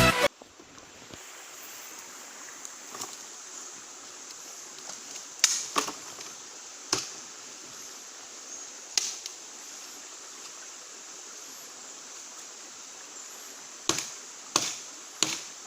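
About seven short, sharp knocks, some in close pairs, over a steady rushing hiss.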